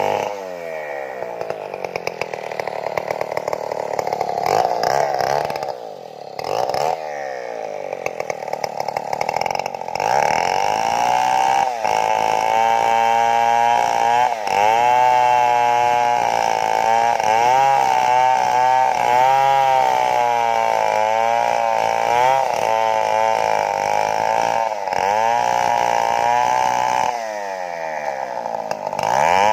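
Stihl chainsaw running at high revs while cutting into a large tree trunk. Its engine pitch keeps rising and sagging as the bar takes and loses load, with brief drops in speed about six and ten seconds in and a dip and re-rev near the end.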